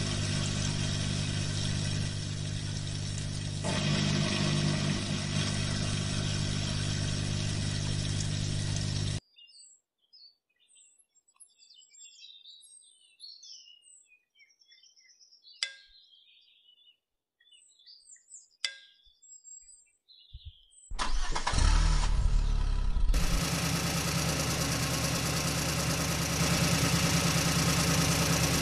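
Toy tractor's engine sound running steadily, then cutting off about a third of the way in. A quiet stretch follows with bird chirps and two sharp clicks. Near the three-quarter mark the engine starts up again with a surge and settles into a steady run.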